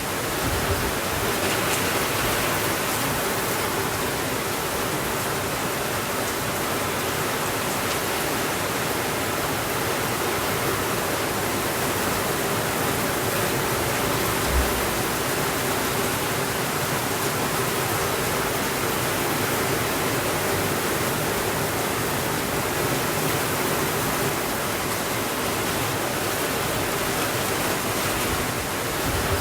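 Steady rainfall, an even, unbroken hiss, with a single brief low thump about halfway through.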